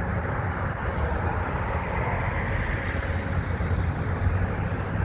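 Steady outdoor rumble of distant road traffic, with a few faint, short high bird calls over it.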